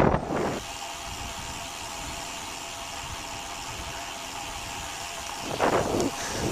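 Wind buffeting the microphone briefly, then an engine running steadily with a faint even hum. The wind buffeting comes back near the end.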